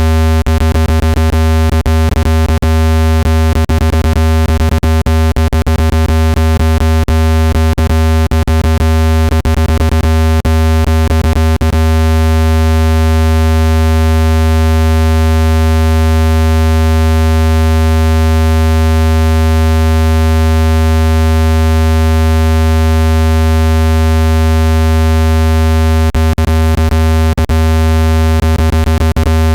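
Synthesized speaker-cleaning tone: a loud, steady low buzzing tone with many overtones, meant to be played at maximum volume to shake dust out of a phone speaker. Rapid clicks run through it for the first dozen seconds and again near the end.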